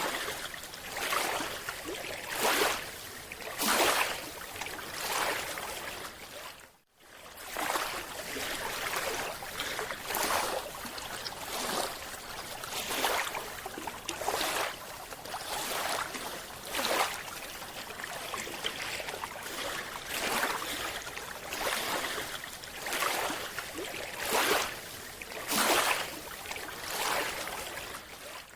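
Underwater recording of a scuba diver's breathing: exhaled bubbles and regulator hiss rushing past in repeated surges every second or two over a steady watery hiss. The sound cuts out briefly about seven seconds in.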